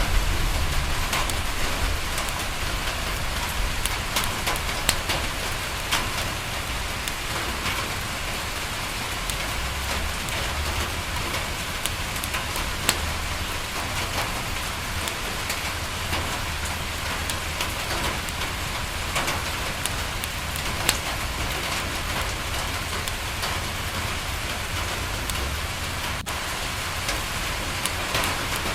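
Steady rain falling on a window, with scattered sharp ticks and pops. A low rumble fades away over the first few seconds.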